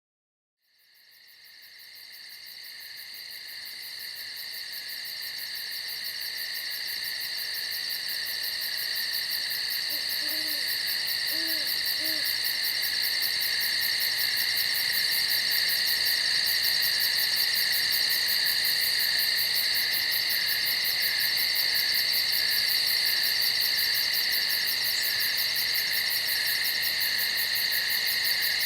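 Dense steady insect chorus, a shrill trilling in several high bands, fading in from silence over the first few seconds. About ten seconds in come four soft, low hoots.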